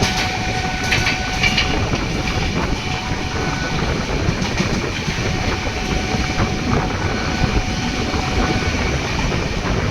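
Konark Express passing through at speed: a steady rushing rumble of the train with wheel clatter over the rail joints.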